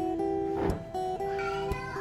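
Background music: a fingerstyle acoustic guitar piece, plucked notes ringing and changing in steady steps.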